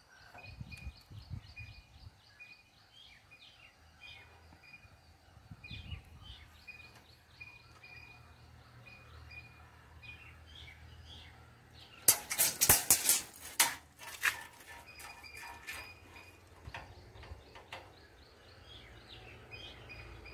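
Small birds chirping over and over in short high notes. About twelve seconds in comes a burst of rapid sharp clicking and rattling lasting about two seconds.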